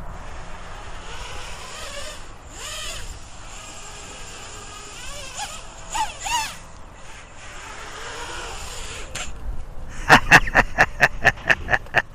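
Small quadcopter's brushless motors running in flight, their pitch rising and falling with the throttle. Near the end comes a quick run of short sharp pulses, about four or five a second, louder than the motors.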